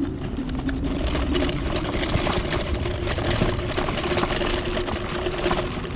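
TRBK-M2 electric hyperscooter's motor whining at a steady pitch while riding, over the rough noise of tyres on sand and mud with many small bumps and knocks.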